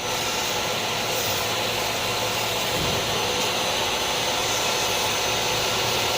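Steam vacuum cleaner running with a steady, even hiss.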